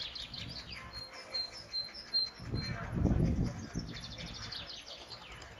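Small bird chirping: a quick run of short, evenly spaced high notes in the first half, with more chirps later. A brief low rumble about three seconds in is the loudest moment.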